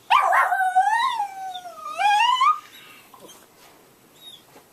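A dog whining: one loud, high, wavering whine that rises, dips and rises again over about two and a half seconds, then stops.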